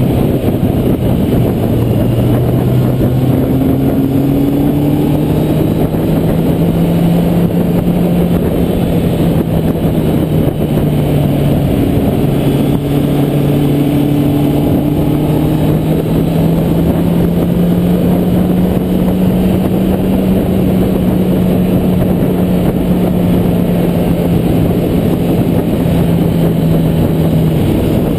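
Kawasaki Z800's inline-four engine running steadily as the motorcycle is ridden, under heavy wind and road noise. The engine note climbs slowly over the first twenty seconds or so, then eases slightly.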